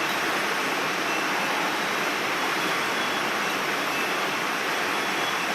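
Mountain stream water rushing, a steady, even hiss.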